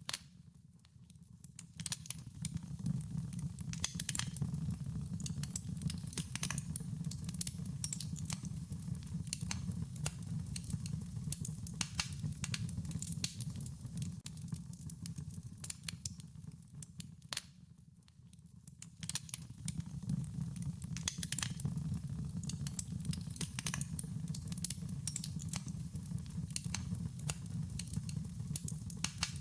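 Wood fire crackling, with many quick sharp pops and snaps over a low, steady rumble of burning. The crackle thins out briefly near the start and again just past the middle.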